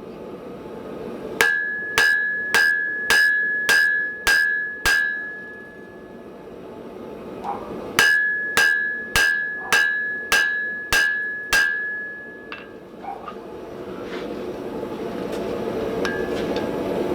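Blacksmith's hammer striking hot steel on an anvil in two runs of seven blows, about two a second, each blow leaving a bright ring. A steady rushing noise builds toward the end.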